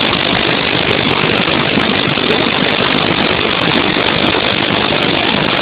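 High floodwater pouring over a dam after heavy rain: a loud, steady rush of water with no break.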